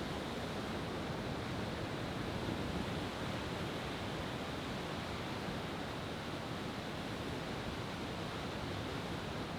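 Steady rush of ocean surf, with no firework bursts in this stretch.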